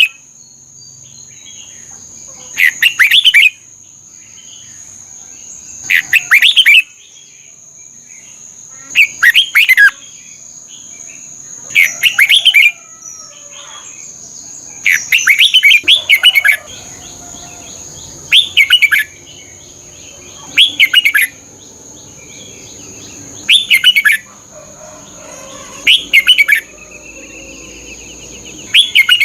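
Red-whiskered bulbul singing: short, bright, warbled phrases repeated about every three seconds, about nine in all. A steady thin high tone runs underneath.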